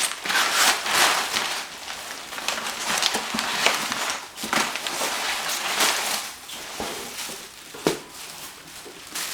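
Cardboard box and packing being handled and pulled apart: irregular rustling and scraping, with a sharp knock about eight seconds in.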